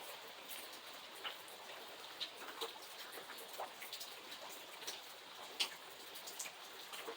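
Steady rain with a hiss and many separate drops ticking on a hard surface, one drop landing louder about five and a half seconds in.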